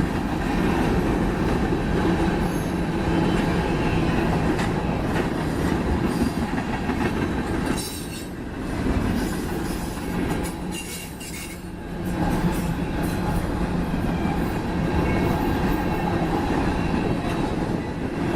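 Freight train cars rolling past, steel wheels running on the rails with a continuous rumble and a thin steady squeal. The sound dips in level briefly about eight seconds in and again from about ten to twelve seconds.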